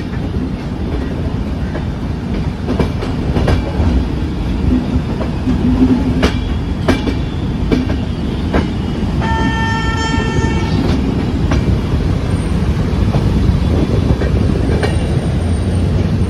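Rajdhani Express passenger train rolling slowly out of the station, heard at an open coach door: a steady rumble with irregular clacks of wheels over rail joints and points. About nine seconds in, a train horn sounds once for about a second and a half.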